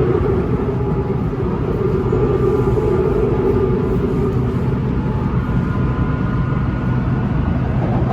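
BTS Skytrain electric train running along the elevated line: a steady rumble of wheels on rail with a humming motor tone.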